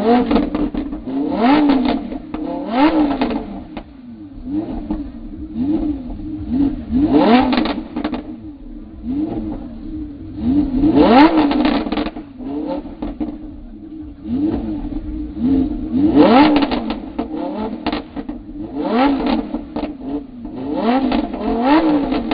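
Sports car engine revved again and again from idle: a dozen or so quick blips, each rising sharply in pitch and dropping straight back, about one every one and a half to two seconds.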